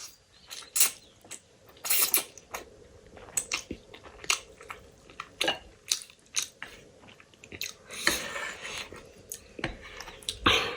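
Close-miked chewing and crunching of food: many short, sharp crunches at an irregular pace, with a louder crunch near the end.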